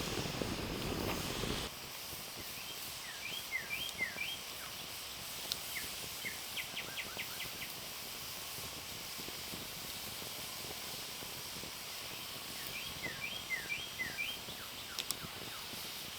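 Outdoor ambience in which a small bird sings the same short phrase of quick chirps twice, about ten seconds apart. A broad rushing noise at the very start cuts off abruptly.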